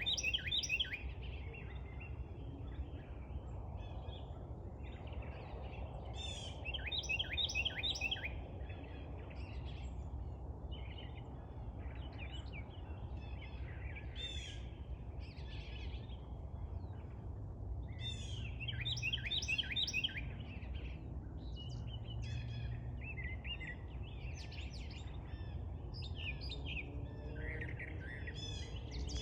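A small songbird singing: quick runs of sweeping high notes, in phrases repeated every few seconds, over a steady low background rumble.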